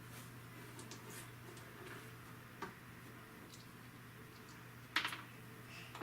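Plastic Lego pieces being handled and pressed together: a few light clicks and ticks, with a sharper click about five seconds in.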